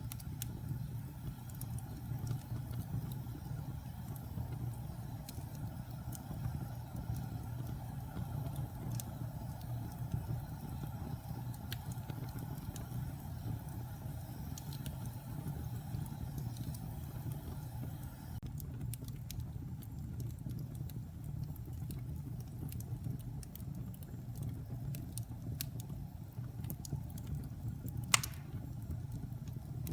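Wood fire burning in a fireplace: a steady low rumble of the flames with scattered crackles and small pops, and one sharp, louder pop near the end.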